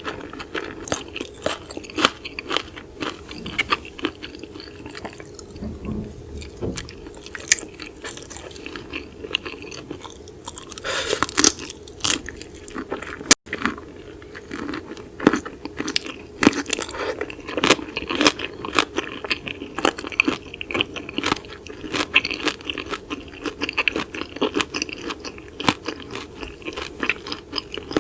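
Close-miked chewing and crunching of raw seafood, with many wet crackles and sharp clicks. The sound cuts out for an instant about halfway through.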